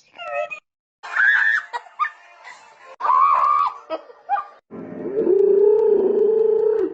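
A person making weird, animal-like vocal noises: several short warbling cries, then one long held, wavering low call near the end.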